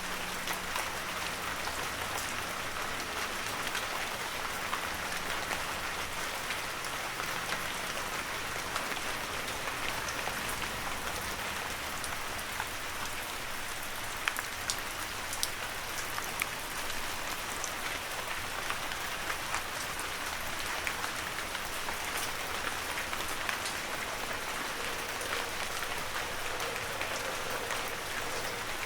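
Heavy rain falling steadily, with sharp individual drop hits scattered through it.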